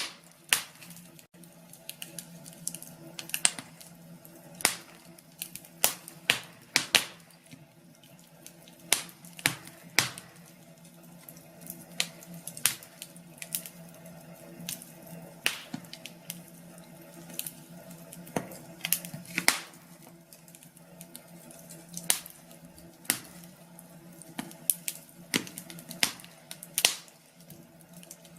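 Wood fire crackling in a fireplace: irregular sharp pops and snaps, about one or two a second, over a faint steady low hum.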